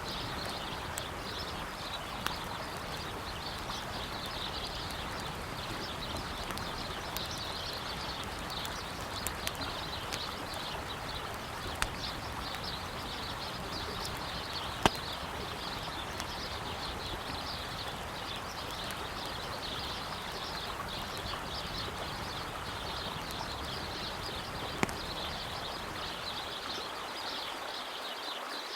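Wood campfire crackling, with scattered sharp pops, the loudest about fifteen seconds in, over the steady rush of a flowing river.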